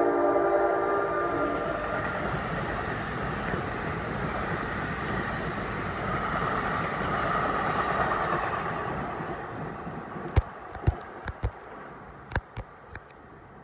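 NJ Transit train passing a grade crossing: its air horn sounds a multi-note chord that stops about a second and a half in, then the train rumbles by and fades. Several sharp clacks come near the end as the last cars go over the rail joints.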